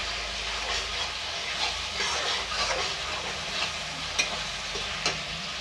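Grated onion and garlic-chilli paste sizzling in oil in a steel kadai over a high flame, stirred with a metal spatula scraping the pan. Two sharper clicks of the spatula against the pan come near the end.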